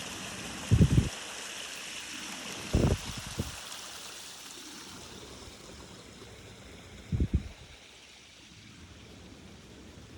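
Rain-swollen backyard pond overflowing, water running and spilling in a steady rush that slowly grows fainter. Three loud low thuds break in: about a second in, near three seconds, and a little past seven seconds.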